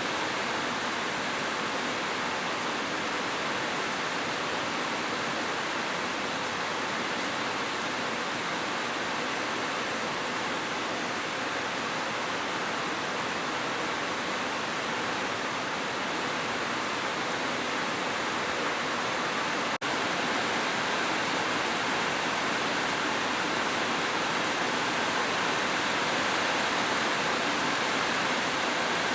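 Heavy rain falling steadily on a metal roof, an even, dense hiss with no single drops standing out. It drops out for a split second about twenty seconds in, then carries on slightly louder.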